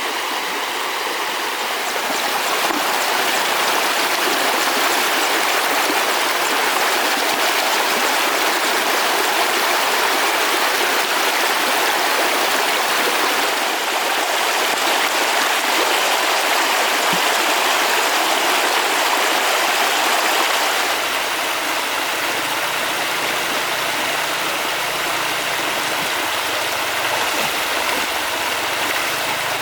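Flowing river water rushing steadily. It eases slightly about two-thirds of the way through, when a faint low hum comes in underneath.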